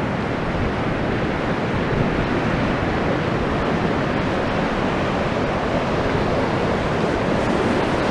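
Rough sea surf washing in as the tide rises, a steady rushing of waves, with wind buffeting the microphone.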